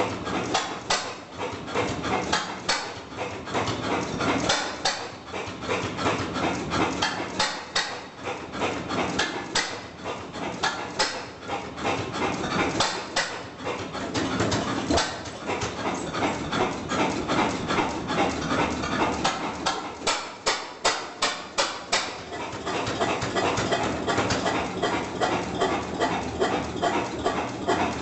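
Vintage single-cylinder stationary engine running, each firing stroke a sharp bang at an uneven beat of about one to two a second.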